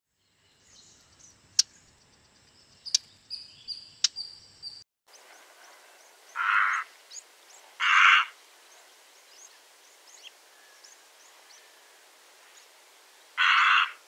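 Birds calling. First come high, thin chirps with a few sharp clicks. Then faint high chirping runs under three loud, harsh calls of about half a second each: two in the middle, a second and a half apart, and one near the end.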